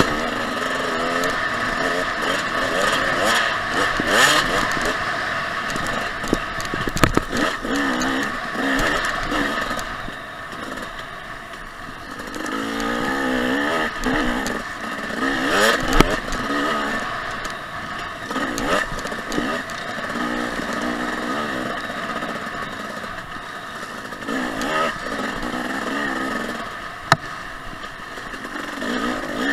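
Husqvarna TC 250 two-stroke dirt bike engine revving up and down over and over as it rides a trail, with a few sharp knocks and rattles from the bike over bumps.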